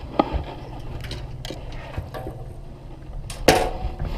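Baitcasting reel being cranked during a lure retrieve, a steady low gear whirr with scattered light clicks, and a louder knock near the end.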